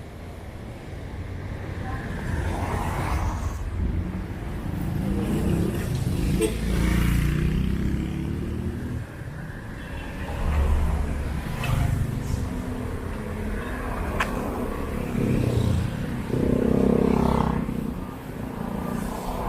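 Street traffic: several road vehicles passing one after another, the engine and tyre noise swelling and fading with each pass.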